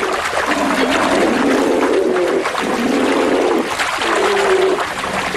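Rushing water of river rapids at a salmon falls: a steady, dense hiss, with several drawn-out low tones, each under a second long, rising over it.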